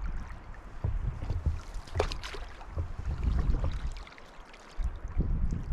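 Open canoe being paddled on the water: paddle splashes and lapping water with scattered sharp knocks, the strongest about two seconds in, over a low wind rumble on the microphone.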